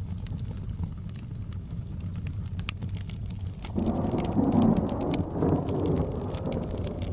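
A fire crackling with sharp pops over a steady rain rumble. About four seconds in, a roll of thunder swells up and fades away over a few seconds.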